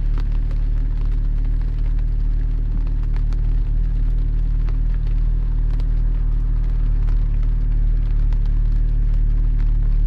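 Porsche 718 Spyder's flat-six engine and tyres making a steady low drone at an even cruise on a wet road, with no change in revs. Scattered small ticks of raindrops striking the car can be heard over it.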